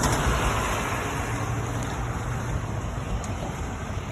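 Steady rumble of a passing vehicle, loudest at first and slowly fading.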